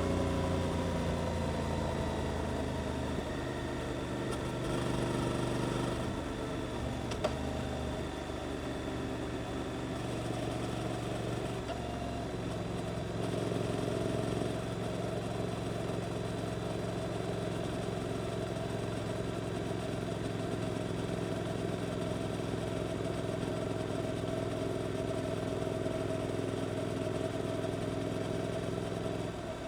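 Suzuki GSX-8S parallel-twin engine through an Arrows exhaust, heard onboard while riding: the revs fall at the start, then it runs at a fairly steady low pitch, with a shift in tone about twelve seconds in and the revs easing down again near the end.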